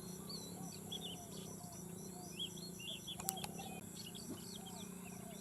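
Birds chirping with many short, quick calls over a steady high insect buzz, with one sharp click about three seconds in.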